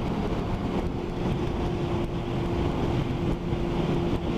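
Motorcycle engine running at a steady motorway cruise with a constant engine note, under heavy wind rush on the microphone and the hiss of tyres and spray on a wet road.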